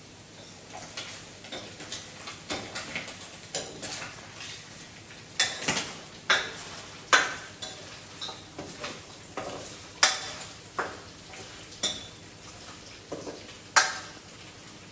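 Irregular clinks and knocks of hard objects being handled, with a handful of sharper, louder clacks among lighter taps.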